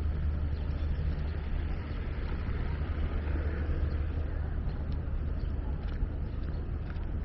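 Steady low rumble of city road traffic, with a few faint clicks.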